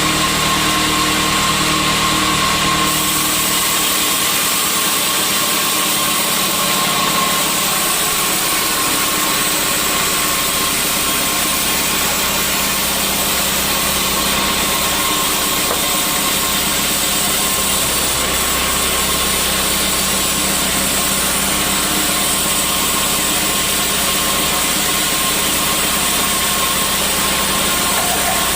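Sawmill machinery running steadily: a loud mechanical drone with a constant whine, its low rumble thinning out about three or four seconds in.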